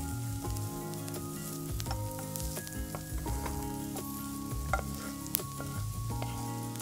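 Food sizzling as it fries in oil in a pan while being stirred, over soft background music; two sharp clicks about five seconds in.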